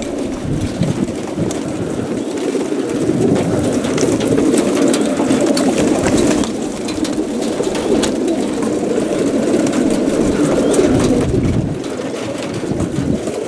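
A crowd of young racing pigeons cooing together, many overlapping calls, with scattered sharp clicks among them.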